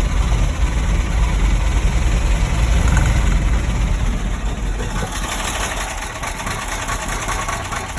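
1971 Ford F600 truck engine running rough, with a deep rumble that eases off in the second half. The engine has a loose connecting rod that knocked a hole in the block, now patched with JB Weld.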